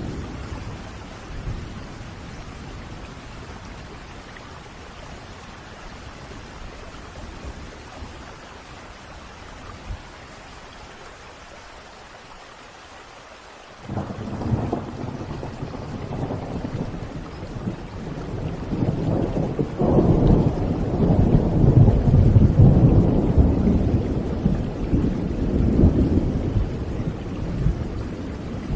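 Steady rain with a thunderclap breaking in about halfway, its low rumble rolling on and growing loudest in the last third before easing off.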